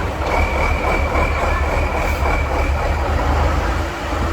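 Heavy truck engine running with a deep rumble, with a steady high-pitched squeal from just after the start until about three seconds in.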